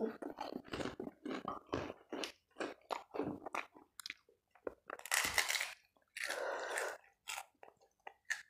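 Close-miked crunching and chewing of kerupuk crackers: a quick run of short, crisp crunches, then two longer noisy stretches after about five seconds.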